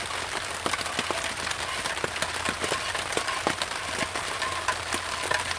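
Steady rain pattering on a tarp tent, with many irregular drop ticks over an even hiss.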